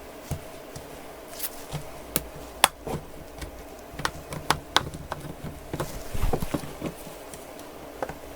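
Irregular sharp clicks and taps of plastic as a tablet's battery cover is pried open with a tool, the clips letting go one after another, with a short denser stretch of handling noise about six seconds in.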